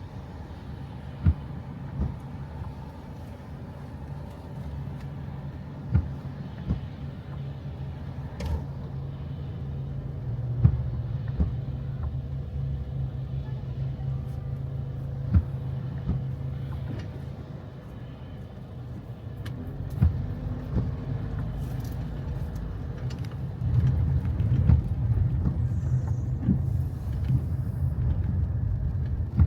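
Steady low rumble of a car in motion, swelling louder twice, with a few sharp knocks now and then.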